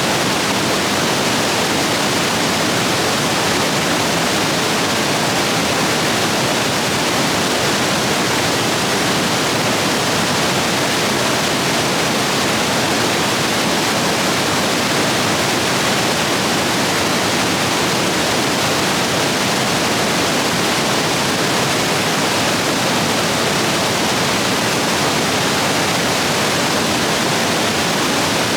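Stream rapids running high after heavy rain: a steady, loud rush of water over rocks.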